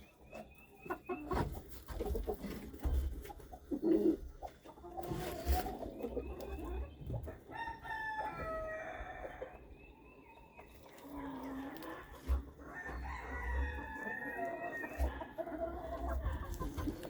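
Chickens clucking, with a rooster crowing about halfway through.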